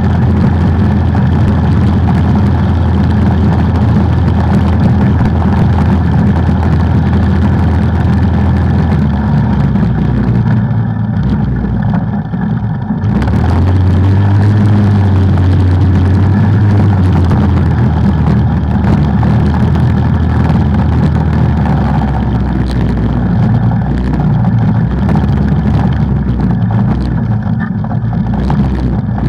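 Off-road vehicle engine running loudly under changing throttle. It eases off briefly about ten seconds in, then picks up again.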